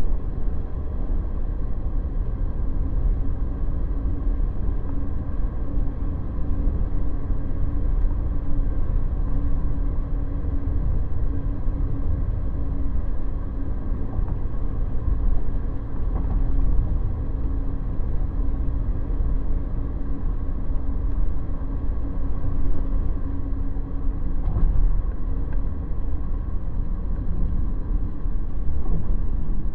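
Ford Transit camper van driving, heard from inside the cabin: a steady low road and engine rumble, with a faint even hum held through most of it.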